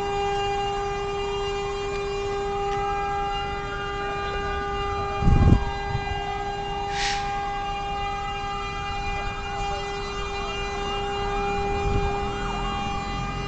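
Fire engine siren wailing, its pitch slowly rising and falling, over a steady held tone. A loud thump comes about five seconds in, and a short hiss about two seconds later.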